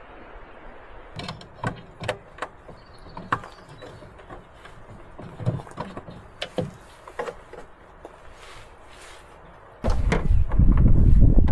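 A series of irregular clicks and knocks, like handling or working something by hand, then near the end a sudden loud, deep rumbling noise.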